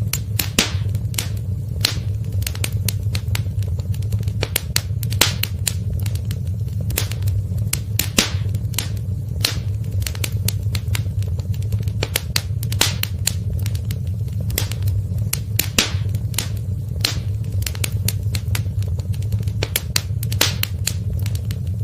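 Wood fire in a fireplace crackling, with sharp pops at an irregular rate of a few per second over a steady low rumble.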